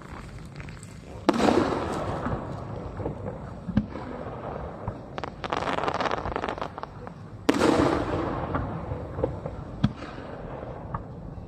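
Fireworks shells bursting overhead: two loud booms, about a second in and about seven and a half seconds in, each with a rumbling tail that dies away over a couple of seconds, and a stretch of crackling between them.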